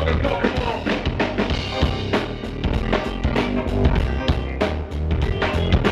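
Live band music with a steady drum-kit beat (kick, snare and rimshots) over a heavy bass line.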